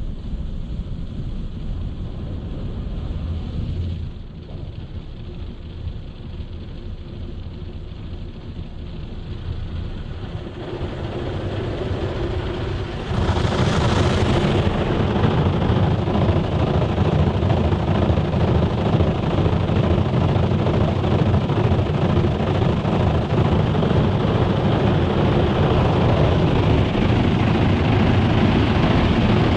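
Automatic car wash running, a steady rushing noise that grows in steps and turns much louder about 13 seconds in, with a brief sharp hiss just after.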